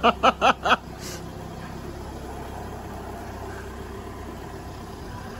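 A person's voice, four quick syllables, in the first second. Then the low, steady running of a Volkswagen SUV's engine as the car creeps slowly along close by.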